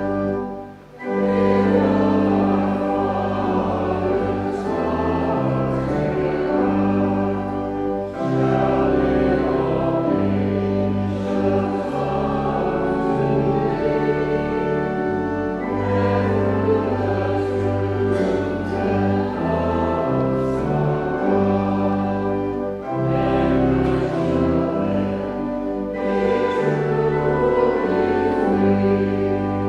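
Choir singing in long, sustained phrases over instrumental accompaniment with a moving bass line, with a brief break about a second in.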